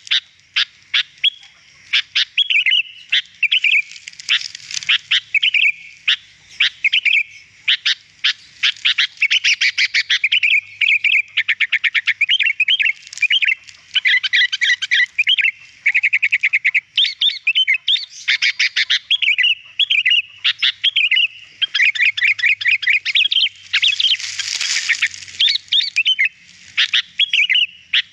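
Sooty-headed bulbul (kutilang) singing: a fast, continuous string of clear chirps and warbled phrases, with a brief harsher, scratchier call about three-quarters of the way through.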